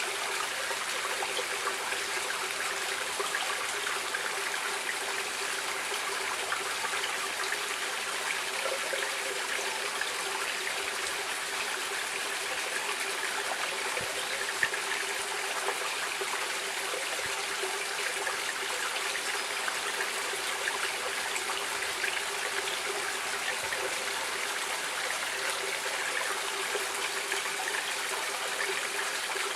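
A stream running steadily over rocks, an even rushing and trickling of flowing water with fine splashing detail.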